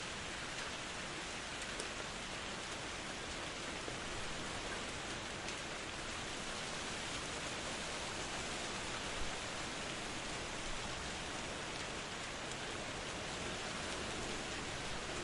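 Steady rain falling, a continuous even hiss with faint scattered drop ticks; one drop tick stands out about nine seconds in.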